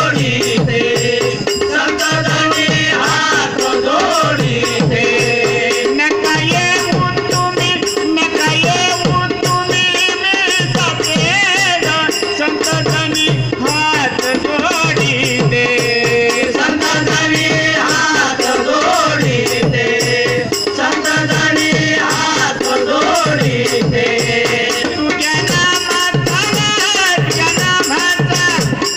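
Marathi devotional bhajan music: small hand cymbals jingling steadily over regular drum strokes, with a gliding melody line on top.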